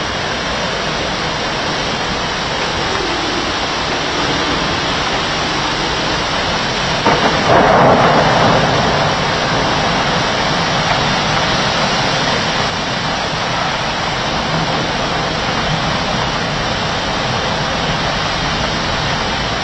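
Heavy rain falling steadily during a thunderstorm, a dense, even hiss, with a louder surge about seven seconds in that lasts about two seconds.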